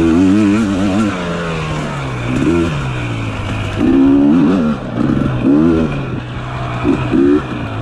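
Dirt bike engine running under repeated bursts of throttle, its pitch rising and falling several times and dropping back between bursts.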